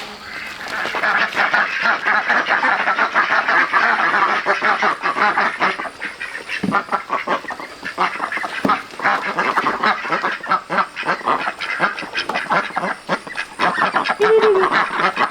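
A dense chorus of rapid animal calls, many overlapping, with two short rising-and-falling calls near the end.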